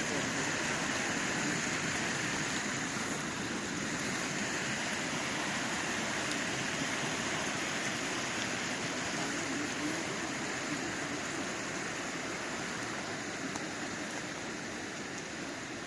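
Steady rush of a mountain stream's water, fading slightly near the end.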